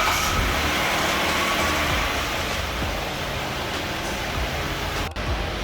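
A car running, a steady rushing noise with a faint whine in the first couple of seconds.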